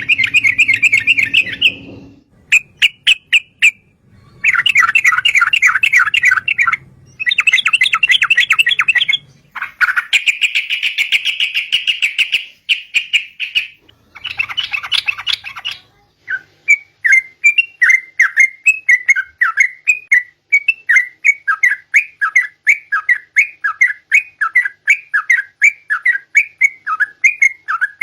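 Yellow-vented bulbul (trucukan) singing: fast chattering phrases in loud bursts for the first half, then a regular run of short repeated notes, about three a second.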